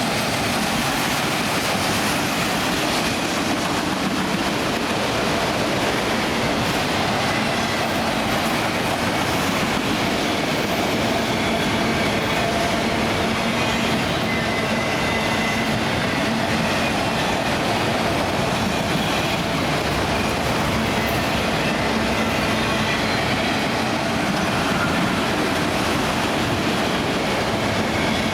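Empty auto rack freight cars rolling past, a steady rumble and rattle of steel wheels on rail with faint thin squealing tones over it.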